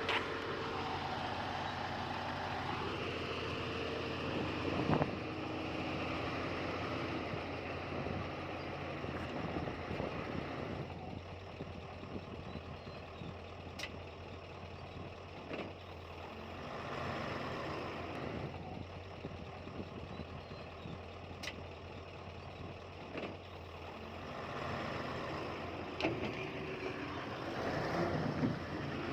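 Heavy earthmoving machinery at work: a diesel engine runs steadily at a moderate level, with a few sharp knocks along the way.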